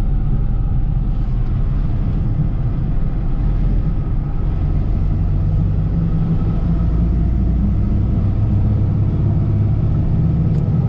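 Steady engine and road rumble of a car being driven, heard from inside the cabin.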